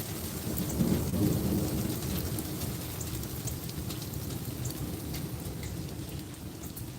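Rain and hail falling hard, with scattered sharp ticks of hailstones striking and a low rumble that is strongest in the first couple of seconds.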